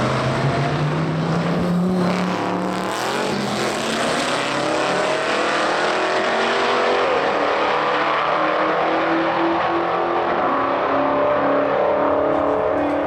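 Roll-race cars accelerating hard at full throttle. The engine pitch climbs over the first couple of seconds, then keeps rising slowly as they pull through the gears, with a brief dip about seven seconds in.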